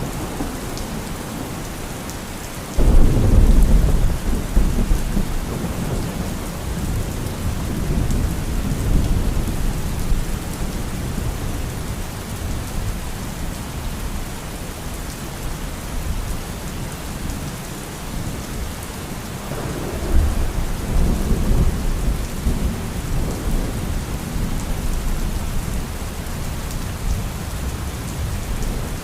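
Steady rain falling in a thunderstorm, with a sudden loud crack of thunder about three seconds in that rumbles on for several seconds, and a second, longer roll of thunder starting about two-thirds of the way through.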